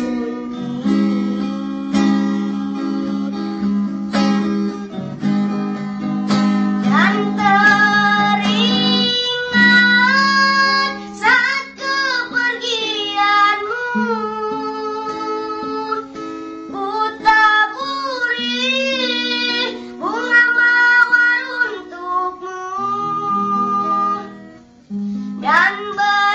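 A song: a high young voice singing a slow, wavering melody over plucked acoustic guitar chords.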